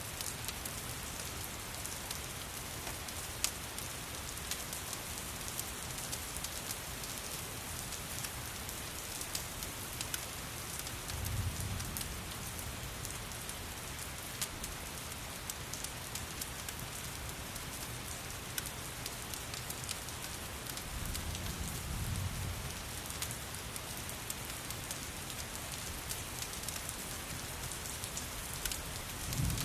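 Steady rain falling, with scattered sharp pops and crackles from a wood fire. Soft low rumbles swell up twice, about a third and two thirds of the way through, and again at the very end.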